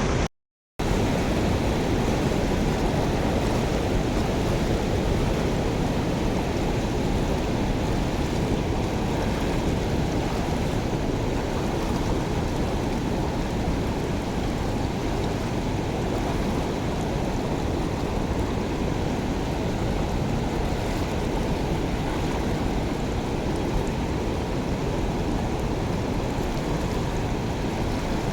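Water rushing steadily through a culvert drain cleared of flood debris. The sound cuts out completely for about half a second right after the start.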